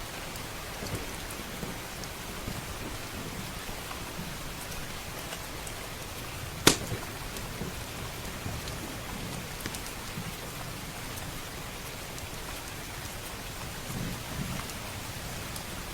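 Steady heavy rain with a fire crackling, small pops scattered throughout and one loud, sharp pop about seven seconds in. A low rumble of thunder swells near the end.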